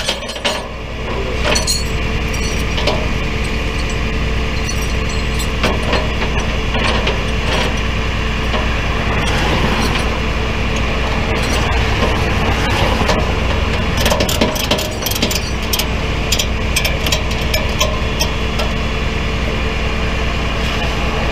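A vehicle engine running with a steady hum, with many scattered clicks and knocks over it.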